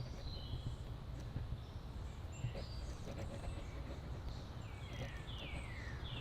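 Backyard birds calling: scattered short high chirps, then from about two-thirds through a series of down-slurred calls, each falling in pitch, about two a second. A steady low background rumble runs underneath.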